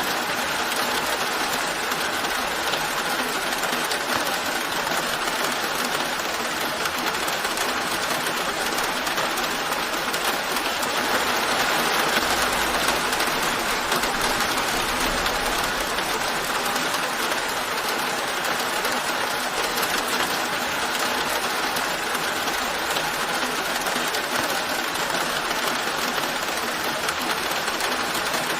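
Steady rain falling, an even hiss that swells slightly around the middle, with a faint low rumble beneath it for a few seconds.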